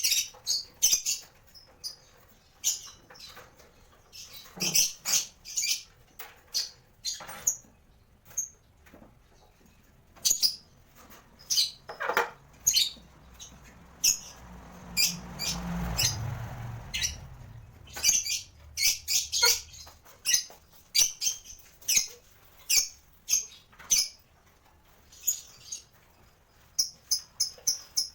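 Lovebirds giving short, sharp, high-pitched chirps in irregular runs, with a low rumble that swells and fades about halfway through.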